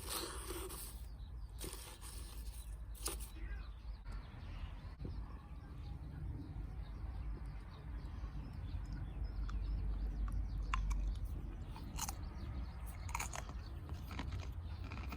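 Wood campfire crackling, with scattered sharp pops and a few short hissing bursts over a low steady rumble.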